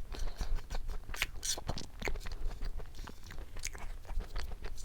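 Close-miked crunching and chewing of a crunchy snack: a quick run of sharp crackling bites and chews.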